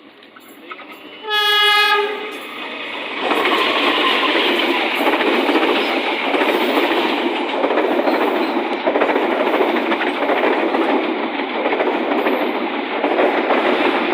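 A train horn gives one short blast, then a train passes close by with a loud, steady rumble and rhythmic wheel clatter on the rails.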